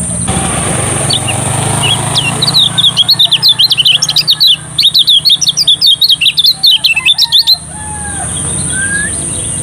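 Lemon-bellied white-eye (kecial kuning) singing: a rapid run of sharp, high chirping notes, about five seconds of fast twittering that starts about two seconds in and stops abruptly, with softer calls around it.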